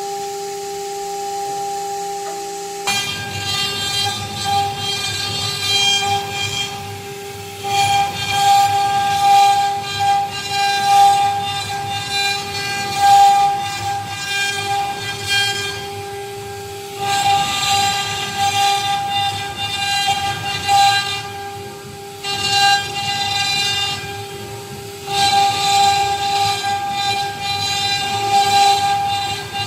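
CNC router spindle running with a steady whine. About three seconds in, the bit starts cutting and a rougher, rising-and-falling cutting noise joins, louder in stretches as the tool moves through the workpiece.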